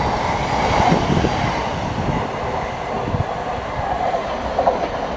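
Class 707 electric multiple unit running at the platform, with a steady noise of wheels on rails and faint tones from the train's electrics.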